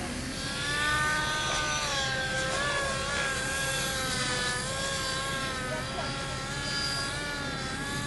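Blade mCP X micro RC helicopter in flight, its motor and rotor whine wavering up and down in pitch as throttle and blade pitch change against gusty wind. Wind rumble on the microphone underneath.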